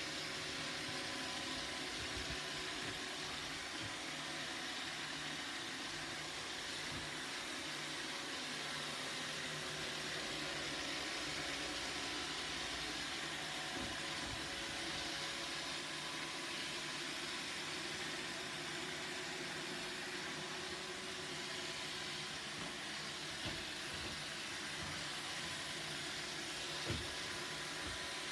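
Roomba robot vacuum running steadily: an even suction hiss with a faint motor hum. A few light knocks, the clearest one near the end.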